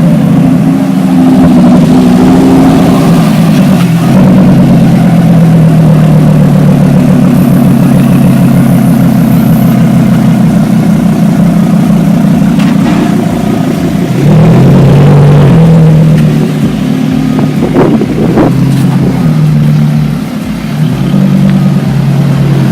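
A car's engine running loudly, its pitch stepping up and down a few times in the second half as it revs.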